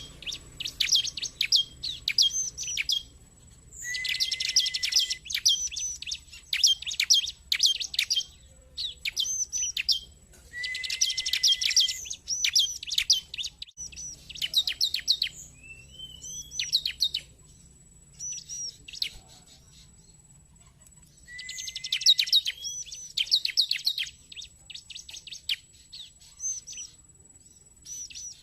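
Bar-winged prinia (ciblek) calling: strings of sharp, high chirps, broken three times by dense rapid trills over a lower held note. There is a brief rising whistle in the middle and a quieter pause a little past halfway.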